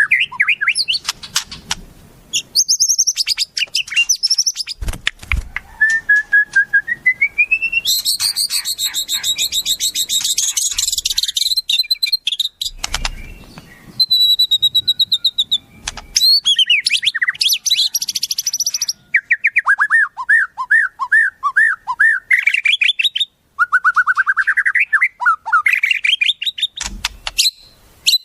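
Recorded songbird song for training a white-rumped shama: a varied run of high whistles, rising glides and fast buzzy trills, broken by short pauses, with quick repeated rising phrases in the last third.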